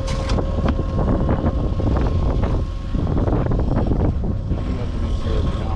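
Strong wind buffeting the microphone, with waves slapping against a fishing boat's hull in many short splashes. A faint steady tone drops out about halfway and returns near the end.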